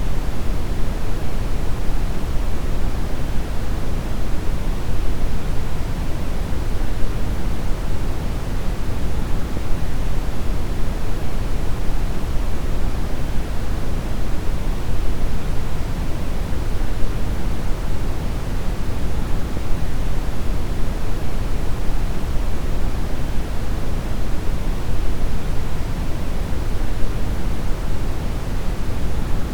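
Steady brown noise: a deep, even rumbling hiss weighted toward the bass, unchanging throughout.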